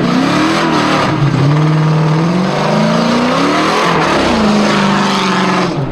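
Car engine revving hard and unevenly, its pitch climbing and dropping several times as the car is driven in a stunt, and falling away near the end.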